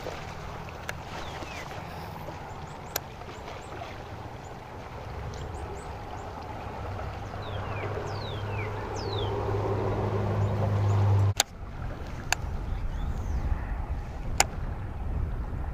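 A boat's electric trolling motor hums steadily, growing louder, then cuts off abruptly about two-thirds of the way through. A few sharp clicks and some short falling bird chirps are heard over it.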